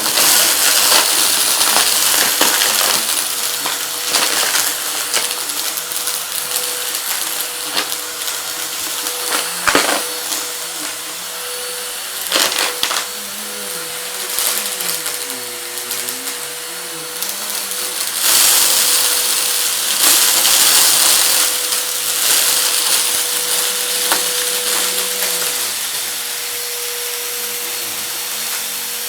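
Vacuum cleaner running with a steady motor whine and hiss, sucking up hard debris that clicks and rattles through it. The rattling is thickest about ten seconds in and again from about eighteen to twenty-one seconds.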